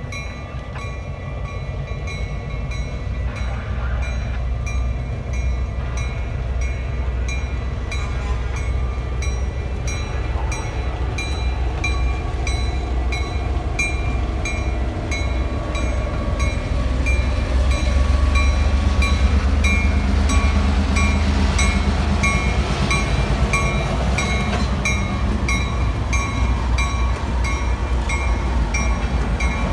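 Metra commuter train passing with a low rumble that builds toward the middle. A bell rings steadily over it, at about two strikes a second.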